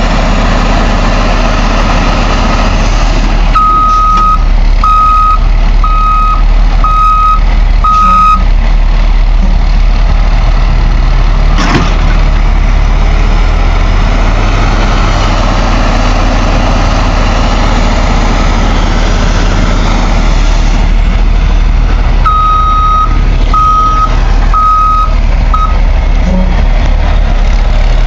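Oshkosh HEMTT heavy 8x8 diesel truck engine running steadily, with its backup alarm beeping as it reverses: five beeps about a second apart early on, and four more in the last third. There is a short sharp knock about midway.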